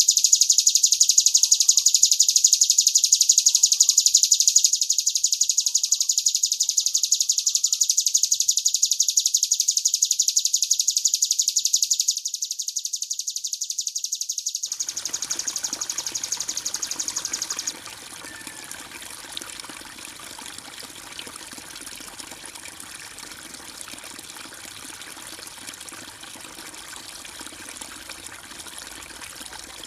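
Recorded songbird song, a fast, continuous high trill, gets quieter twice. It then crossfades, about halfway through, into the steady sound of flowing water, which carries on alone.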